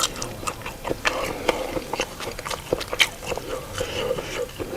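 Close-miked chewing of a mouthful of food, with many short wet mouth clicks and lip smacks.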